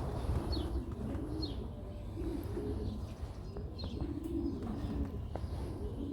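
Fancy pigeons cooing in repeated rolling phrases, one every second or two, with a few faint high chirps over them.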